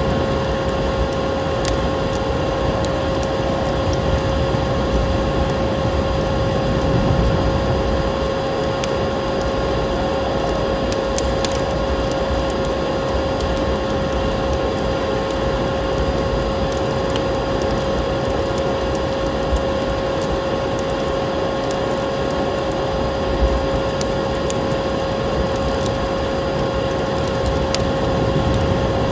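Wood fire crackling, with scattered sharp pops and ticks over a steady rushing noise and a constant low hum.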